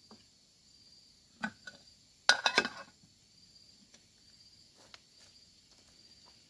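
Crickets chirping steadily in the night forest, with a few sharp knocks about a second and a half in and a louder short clatter of knocks just after two seconds.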